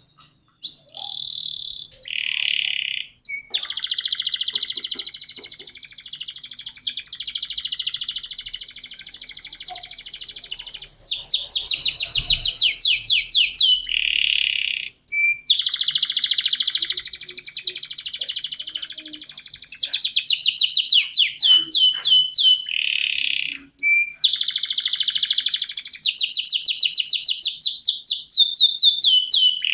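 Domestic canary singing long, nearly unbroken song phrases, high-pitched, with fast rolling trills of rapidly repeated falling notes, pausing only briefly a few times.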